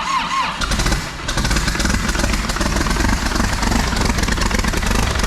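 A salvaged Caterpillar backhoe diesel engine being cranked by its starter catches about a second in, then runs steadily with rapid firing strokes. This is its first start after the machine was wrecked.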